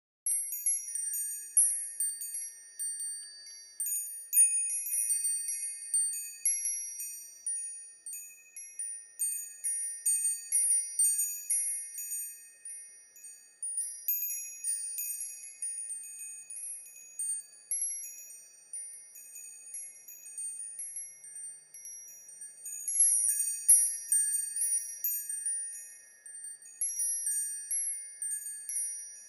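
Wind chimes ringing, with many high, overlapping tinkling notes struck at random. They start abruptly from silence just after the beginning.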